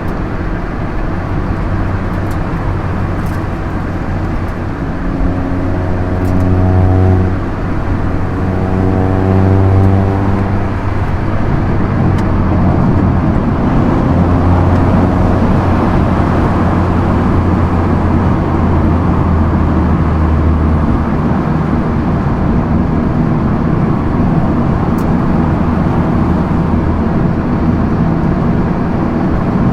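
Proton Inspira 1.8 manual's 1.8-litre MIVEC four-cylinder engine and road noise at speed. The engine note rises twice in the first ten seconds as the car accelerates, then settles into a steady cruising drone.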